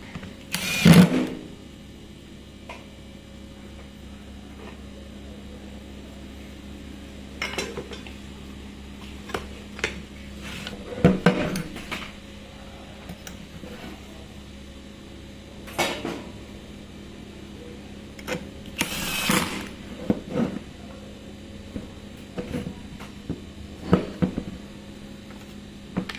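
Scattered clicks, knocks and clatter of tools and parts being handled during repair work on a cordless grass trimmer, at irregular intervals over a low steady hum.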